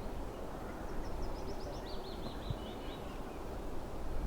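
A small songbird sings one short trill of rapid repeated notes, dropping to a lower pitch partway through, over a steady low outdoor rumble.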